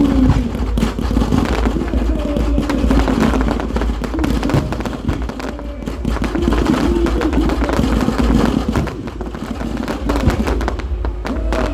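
Fireworks display going off, with many rapid bangs and crackles overlapping one another.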